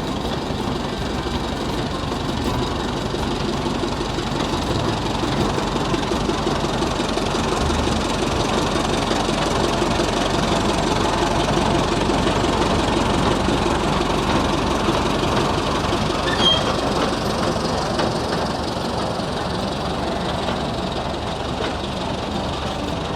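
Antique steam traction engine running steadily, with a fast, even mechanical clatter.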